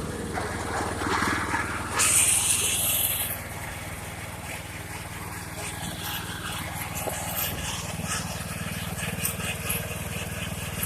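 17 hp riding mower engine running through a Honda Shadow 750 motorcycle exhaust, a steady low exhaust note. It is louder and rougher from about one to three seconds in, then settles back to an even run.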